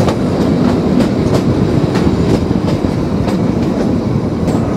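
Kalka–Shimla narrow-gauge toy train rolling along the track: a steady rumble with repeated clicks of the wheels over the rail joints.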